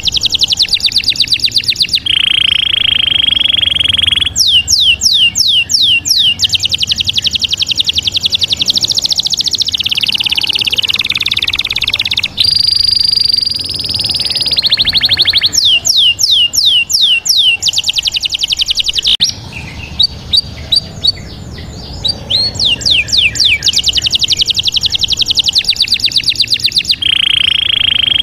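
Bird song: rapid series of high, falling chirps, broken by a few held whistled notes, changing abruptly from one section to the next.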